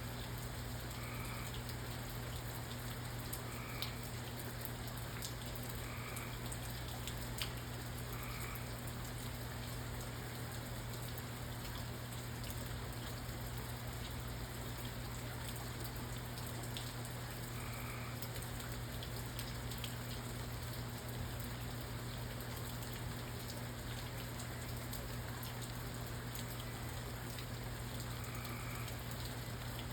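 Steady rain falling, with scattered drops tapping sharply on a surface. Faint short chirps sound every few seconds.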